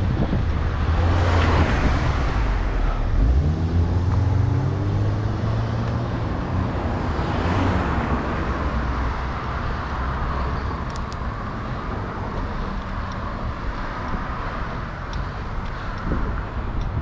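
Road traffic: motor vehicles passing, with a low rumble throughout. One engine rises in pitch as it accelerates, about three to six seconds in.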